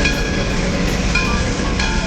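Train running: a loud steady rumble with brief high-pitched ringing tones that recur about every half second.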